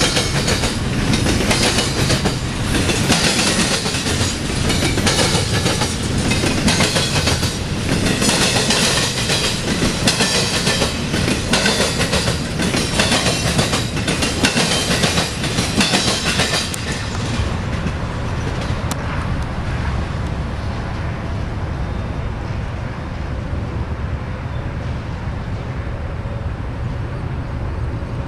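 Union Pacific intermodal freight train passing, its steel wheels clattering rhythmically over the track with a steady heavy rumble. About two-thirds of the way through the clatter and hiss die away, leaving a lower, steady rumble.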